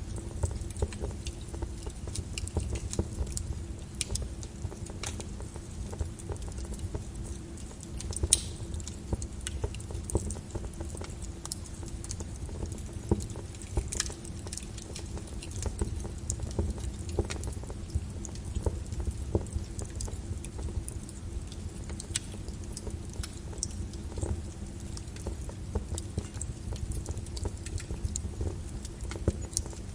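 Lava flow crackling and popping: irregular sharp cracks, a few a second, over a steady low rumble.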